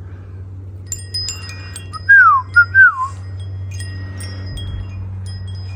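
Wind chimes tinkling, with three loud falling whistle-like tones about two seconds in, over a steady low hum.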